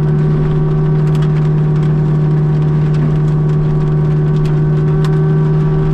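Kubota U55-4 mini excavator's diesel engine and hydraulics running at a steady, unchanging drone, heard from inside the cab. Faint scattered ticks of rain fall on the machine.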